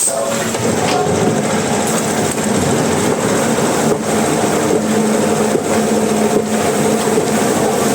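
Sawmill machinery running steadily: a loud, continuous mechanical noise with a steady hum.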